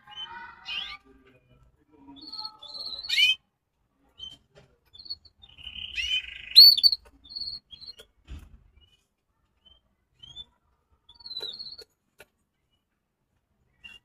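Caged small birds giving short chirps and call notes, with a louder rising call about three seconds in and another, the loudest, about six and a half seconds in. A soft thump comes a little after eight seconds.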